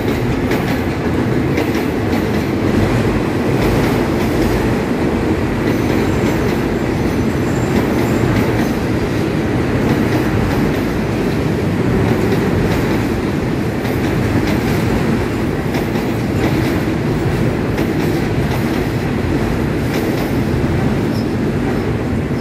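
Diesel-hauled passenger express train passing close by over a level crossing: a loud, steady rumble of the locomotive and the long line of carriages rolling on the rails, with the clatter of wheels over the track.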